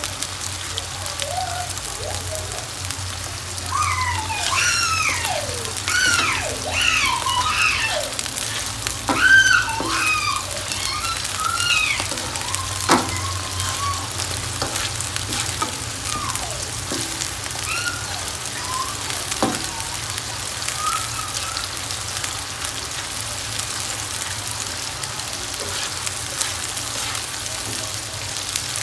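Palm weevil larvae (coconut worms) sizzling steadily as they fry in oil in a wok, with the metal spatula clicking against the pan twice. Between about 4 and 12 seconds in, a run of high gliding whistle-like tones sounds over the sizzle.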